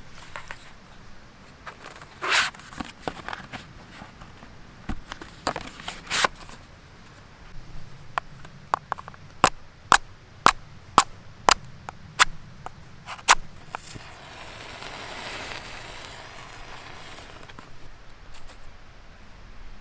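Dry wood snapping and crackling: scattered sharp cracks, then a run of crisp snaps about two a second in the middle, followed by a soft hiss lasting a few seconds.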